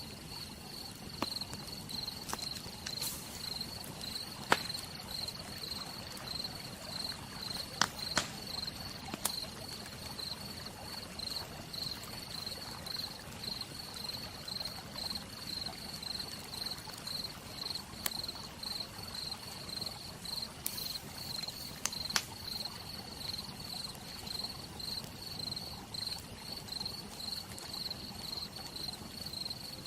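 Crickets chirping in a steady, regular pulse over a soft even hiss, with a few sharp pops and crackles from a campfire.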